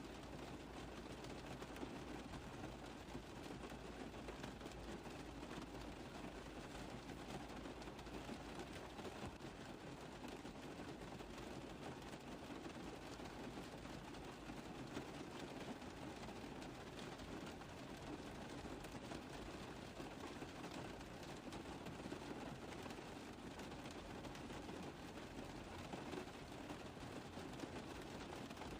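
Steady rain drumming on a car's roof, a dense patter of drops with no break.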